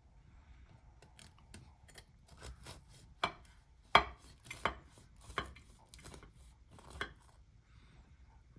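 Kitchen clatter: a string of irregular sharp knocks and clinks of utensils and dishes on a counter, the loudest about four seconds in.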